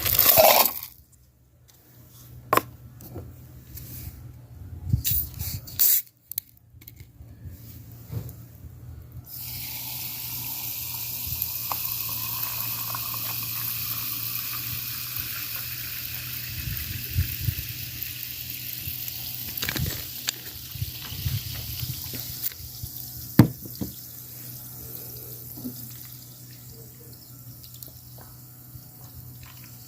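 Water running steadily, like a tap into a sink, starting about nine seconds in and easing off after about thirteen seconds. Scattered knocks and clinks come before it and a few sharp knocks after.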